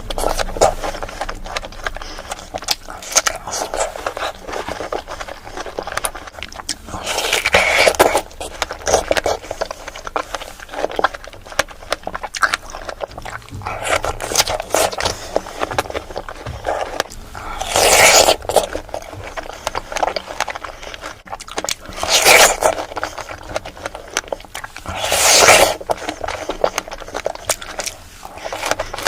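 Close-miked eating of fresh strawberries with Nutella and whipped cream: steady wet chewing and mouth smacks, with several louder bites or mouthfuls spread through.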